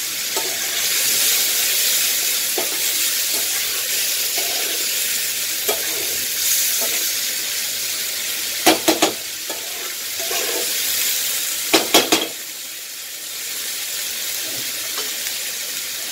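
Raw green banana pieces sizzling in spice paste and oil in a kadai while being stirred with a spatula: a steady frying hiss. Two quick clusters of sharp clicks, about nine and twelve seconds in, are the spatula knocking against the pan.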